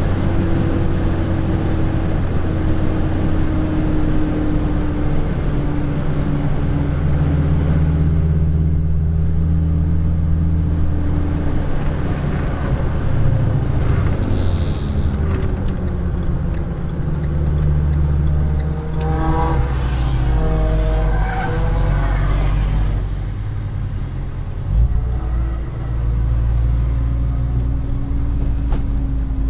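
Renault Clio RS IV's 1.6-litre turbocharged four-cylinder engine pulling hard through a lap, its pitch falling and rising with gear changes over a loud low rumble of engine and road noise. A brief high-pitched squeal about halfway and a short thump near the end.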